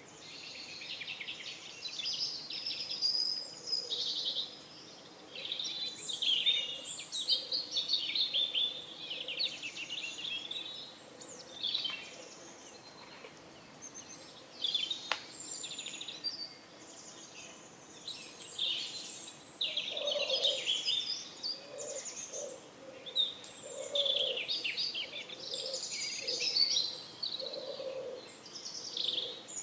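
Outdoor morning bird chorus: small songbirds chirping and trilling almost without pause. From about two-thirds of the way in, a pigeon's low cooing repeats under them.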